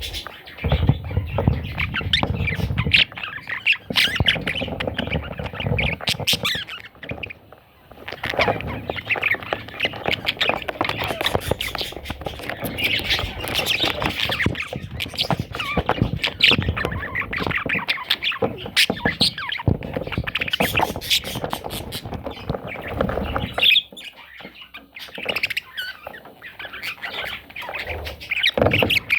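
Pet budgerigar chattering and warbling almost without pause, broken by harsh squawks, with brief lulls around eight seconds in and near the end.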